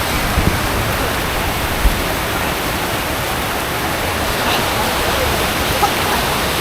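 Steady rush of water pouring over a waterfall, an even full-range roar with a couple of low bumps in the first two seconds.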